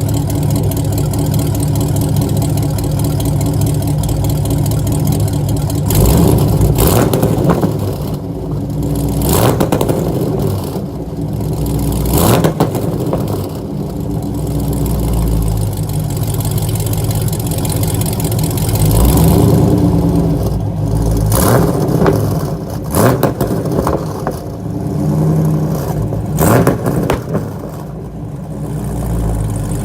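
Straight-piped V8 of a 2010 Chevrolet Camaro SS, opened up through exhaust cutouts, running with a loud, steady exhaust note. It is revved several times, each rev with sharp cracks and pops typical of a 2-step launch limiter.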